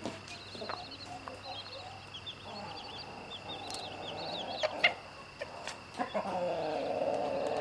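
Chicks peeping in quick runs of short high chirps. An adult chicken gives two long, low, drawn-out calls, the second one louder.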